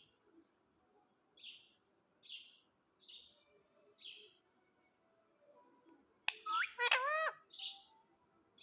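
Pet parrot chirping: a series of short, high chirps about one a second, then a louder call of about a second with swooping pitch about six seconds in, followed by two more chirps.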